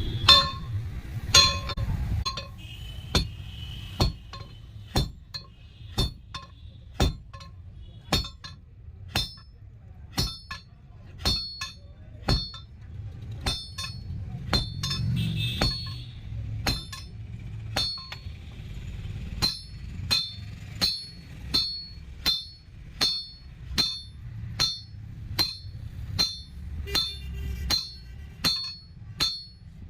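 Blacksmith's hammer striking a tempered steel rod on an anvil: a regular run of ringing metal blows, about one a second at first and quickening to about one and a half a second in the second half, over a steady low hum.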